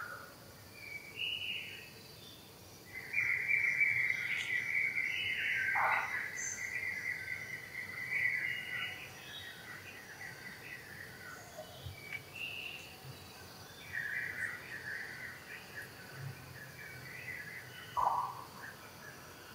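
Birds calling and chirping, with a loud trilling from about three seconds in that lasts around six seconds, and a few short downward-sliding calls.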